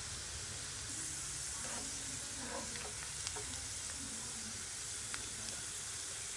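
Thin onion slices frying in hot oil in a pan: a steady sizzle with a few faint crackles.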